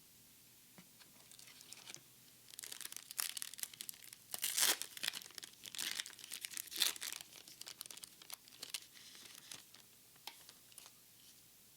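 Foil wrapper of a Japanese Pokémon card booster pack being crinkled and torn open, a run of sharp crackles that is loudest in the middle.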